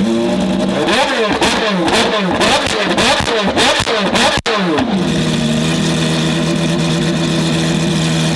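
A high-performance car engine held at a steady note, then revved up and down rapidly over and over for a few seconds. After an abrupt break, the revs drop and it settles back to a steady held note.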